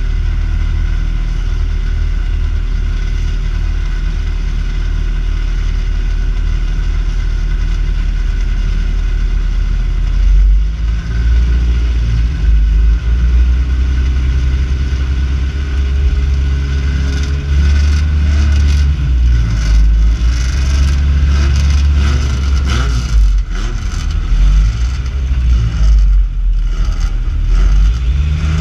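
2WD Toyota 4Runner's engine heard from inside the cabin while racing on dirt, running steadily at first, then from about ten seconds in louder, its pitch rising and falling again and again as it accelerates and lifts through the turns. Short knocks and rattles come through in the second half.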